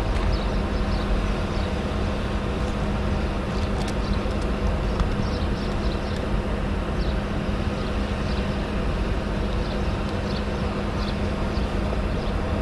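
Diesel freight locomotives pulling a train of coal hopper cars slowly past, a steady low rumble of engines and rolling wheels with a constant hum, and faint short high squeaks now and then.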